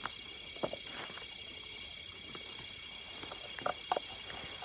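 Steady chorus of night insects, crickets chirring, with a few light taps and clicks from work close by.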